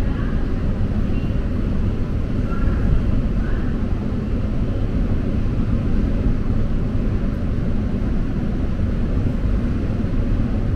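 Steady low rumble of a train heard from inside the coach, with faint distant voices now and then.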